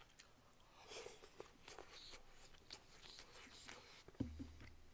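Faint closed-mouth chewing of a piece of black goat meat, with small wet mouth clicks. A single soft knock about four seconds in, followed by a low hum.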